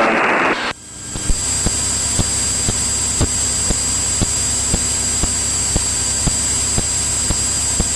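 Cirrus single-engine piston airplane in cruise, heard as a steady drone in the cockpit audio with a high steady whine and faint regular ticks about twice a second. A radio transmission cuts off just under a second in.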